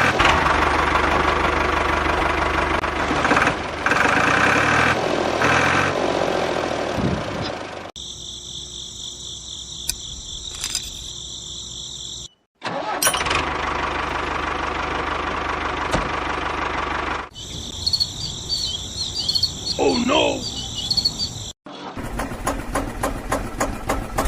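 Miniature diesel engine running, heard in several short clips with abrupt cuts between them. In two quieter stretches a steady high insect buzz is heard, and near the end the engine is a rapid, even ticking.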